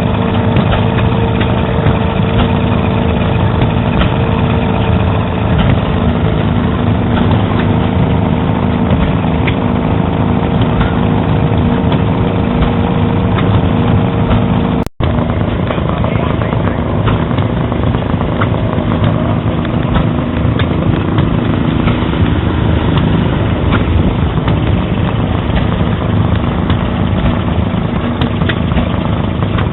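Model engines running steadily at a constant speed, with a brief dropout about halfway through.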